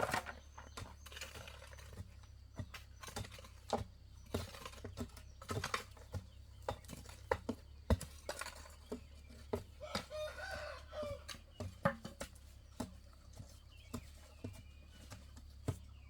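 Chickens clucking, with many irregular sharp knocks throughout.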